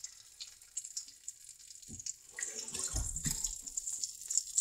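Pop Rocks candy fizzing and crackling in water inside its bag: a dense run of tiny pops with a steady hiss, growing louder about halfway through, with a couple of low thumps from handling the bag about three seconds in.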